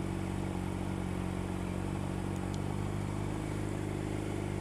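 Triumph motorcycle's three-cylinder engine idling steadily, an even low hum that holds one pitch.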